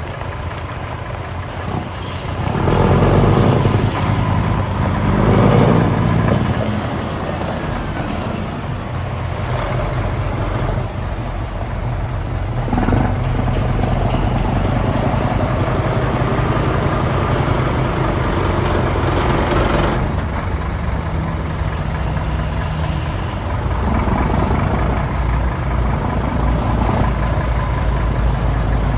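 Scania P-series diesel truck engine with a straight-through exhaust, revved twice in the first few seconds and then running steadily, with a few smaller rises in engine speed.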